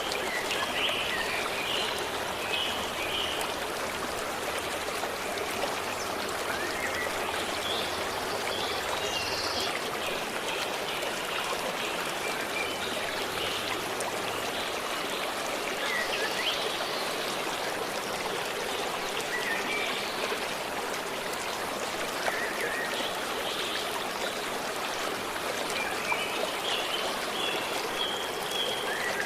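A stream running steadily over rocks, with small birds chirping on and off.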